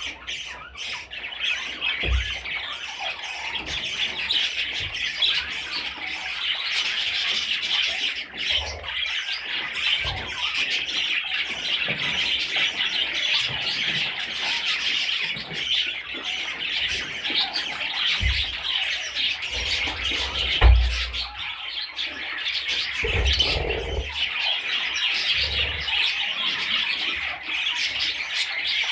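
A group of pet budgerigars chattering and squawking without a break, a dense high-pitched warble. A few dull low thumps are heard along the way, the loudest about two-thirds of the way through.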